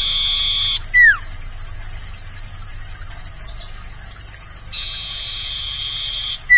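Sirtu, an iora, singing: a long, level whistle that ends in a short, sharp downslurred note, given twice.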